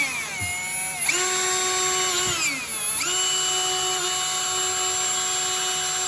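Power drill running at full speed as it drills into the steel oil pan of a small-block Chevy 350, there because the stuck drain plug won't come out. Its whine winds down twice as the trigger is eased off and then picks back up, running steady in the second half.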